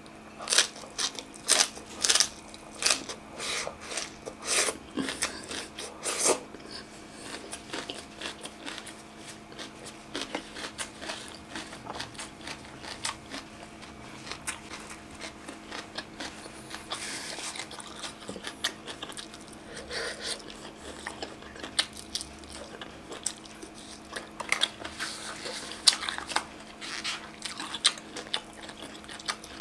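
Close-miked eating of crisp leafy greens: loud crunching bites for the first six seconds or so, then steady chewing with smaller crunches.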